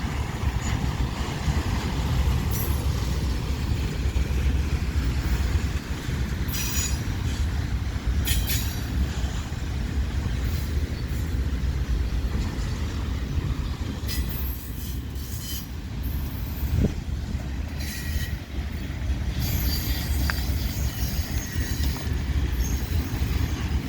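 Freight cars of a long CN train rolling past with a steady low rumble from the wheels on the rails, broken several times by brief high-pitched wheel squeals.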